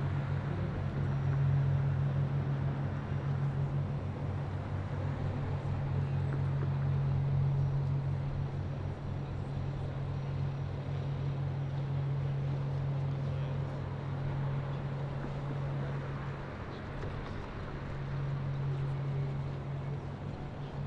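Steady low engine hum, typical of a boat's engine on the river, over an even wash of city noise. The hum weakens briefly about sixteen seconds in, then returns.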